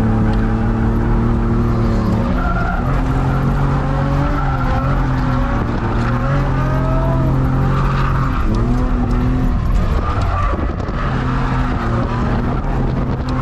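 Drift car's engine running hard at high revs, its pitch shifting several times, with tyres squealing in wavering tones as the car slides.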